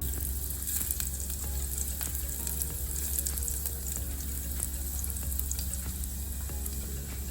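Food frying in a hot pan: a steady sizzle with many small crackles and pops, starting abruptly. Background music plays softly underneath.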